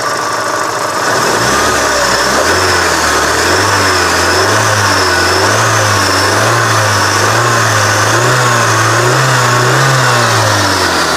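A car's 16-valve four-cylinder engine running with the throttle held up, its pitch wavering up and down while climbing slowly, then falling away near the end as the revs come down.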